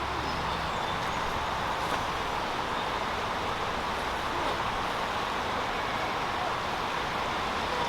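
Buffalo Creek's water flowing steadily over its bed, an even rushing hiss.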